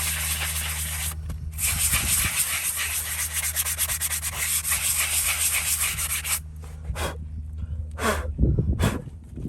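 A powered sanding tool grinding down a horse's hoof wall, a steady rasping grind over the motor's hum. It breaks off briefly about a second in and stops about six seconds in, the motor winding down. A few scattered knocks and a louder low sound follow near the end.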